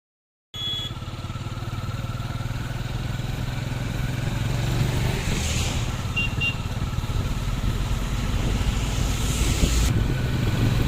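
Motorcycle engine running steadily while riding, with road and wind noise, slowly getting louder. Two short high beeps sound about six seconds in.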